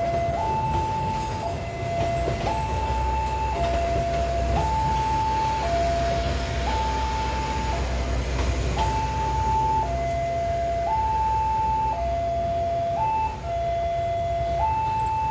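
Electronic two-tone warning alarm sounding a hi-lo pattern, each tone held about a second, over the low rumble of a departing train, which is strongest in the middle.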